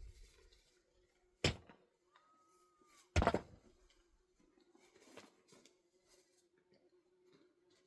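Two knocks about two seconds apart, the second louder, over a faint steady hum.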